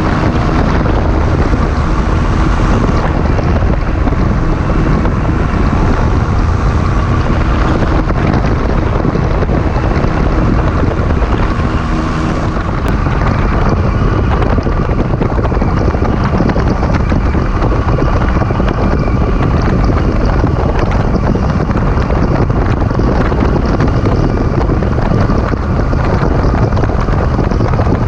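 Heavy wind buffeting the microphone, with a microlight aircraft's engine droning underneath that fades out about halfway through.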